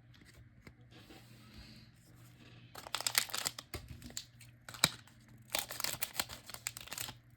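Trading card pack's foil wrapper being torn open and crinkled in two bursts of crackling, with a sharp snap in between.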